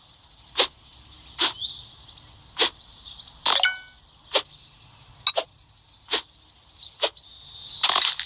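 Sharp slicing strokes of a blade, nine clean cuts about one every second, with birds chirping in the background.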